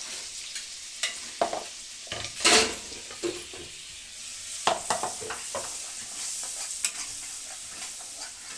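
Onion, ginger and garlic masala with bay leaves sizzling in hot oil in a pan, while a spoon stirs it and scrapes the pan several times, the loudest scrape about two and a half seconds in.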